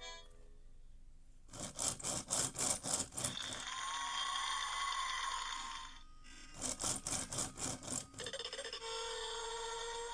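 VTech Go! Go! Smart Wheels toy race car's electronic sound effects from its small speaker. Two bursts of rapid rattling pulses, the first running into a steady buzzy tone, are followed by a few short musical notes near the end.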